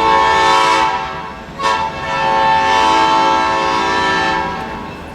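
Locomotive air horn sounding two blasts: a short one of about a second, then after a brief gap a longer one of about three seconds, a steady multi-note chord that fades near the end.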